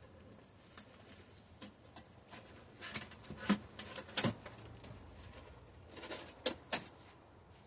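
Plant cover being handled and arranged over greenhouse beds: soft rustling with scattered light knocks and clicks, the sharpest ones a little before the middle and twice near the end.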